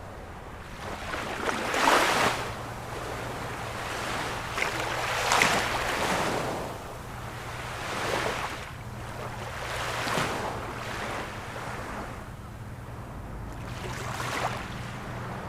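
Ocean waves washing in and drawing back, in about five swells of rushing surf, the loudest about two and five seconds in, over a faint steady low hum.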